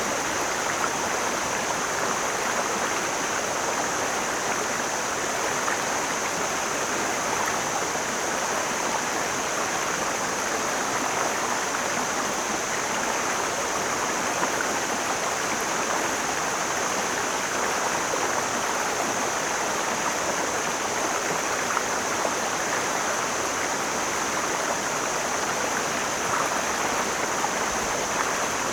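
Mountain stream flowing, a steady, even sound of running water with no breaks.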